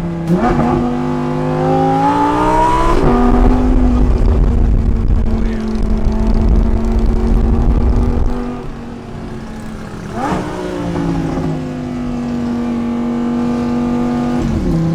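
Lamborghini engine accelerating, its pitch rising, then shifting up about three seconds in and running steadily under load. About ten seconds in it pulls again with rising pitch, holds steady, and drops in pitch near the end.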